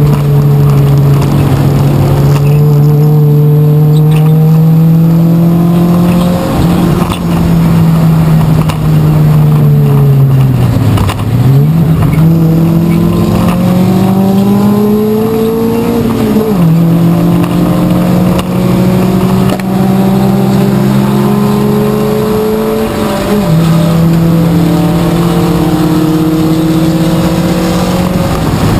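Race car engine heard from inside the stripped cabin, running under load. Its pitch climbs slowly and then steps down several times, with one deep dip and climb back about eleven seconds in, and a falling note near the end.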